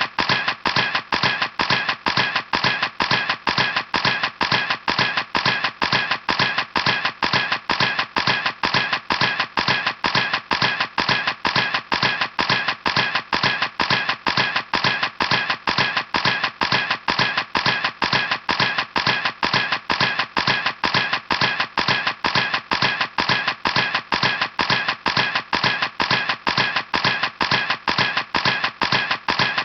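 A camera clicking over and over at a steady, even pace, about three sharp clicks a second.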